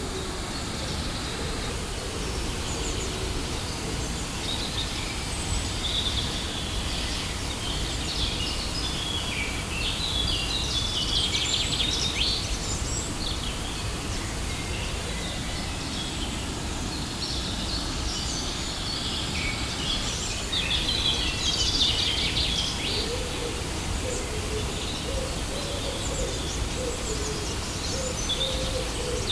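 Steady rush of a waterfall with small birds chirping over it, busiest about ten to thirteen seconds in and again around twenty to twenty-two seconds. A low wavering call sounds near the start and through the last few seconds.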